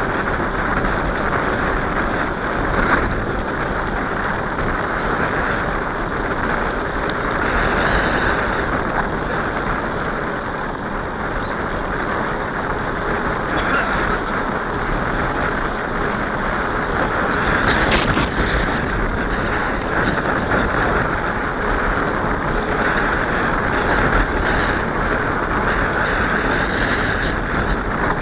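Steady rushing wind noise on the microphone of a moving bicycle rider, with a single sharp click about two-thirds of the way through.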